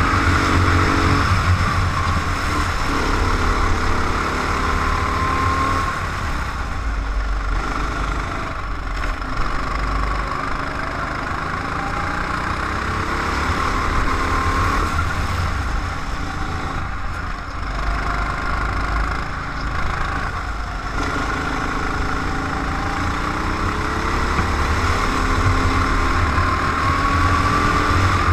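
Go-kart engine heard from an onboard camera, running throughout with its pitch rising and falling as it accelerates and slows, over a steady low drone.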